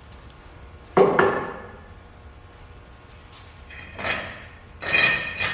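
Metal car parts being handled and set down: a sharp knock about a second in, then two ringing metallic clanks near the end.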